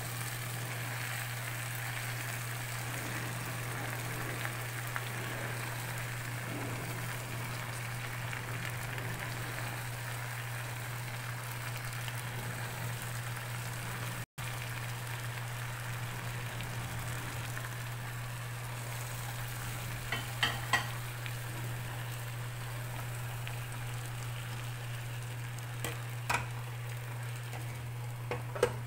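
Food sizzling softly in a hot pot as water spinach is piled in, over a steady low hum. A few sharp clicks come in the last ten seconds, the last as a glass lid is set on the pot.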